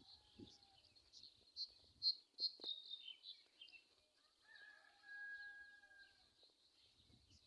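Small birds chirping faintly, short high notes repeated throughout, with a quick falling run of notes about three seconds in. About halfway through, a longer drawn-out call is held for under two seconds.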